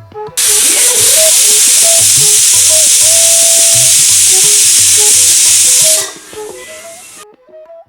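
Pressure cooker whistle: steam hissing loudly out past the lifted weight for about five seconds, then dropping away, the sign that the cooker has come up to pressure with the pulao cooking inside.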